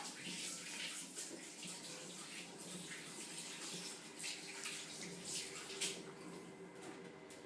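Water running from a kitchen tap while hands are washed under it, with irregular splashes.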